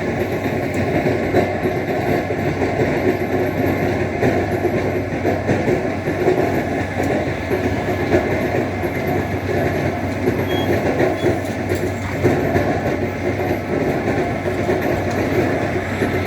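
A tractor loader's engine running steadily, with a constant low hum under a dense mechanical rumble.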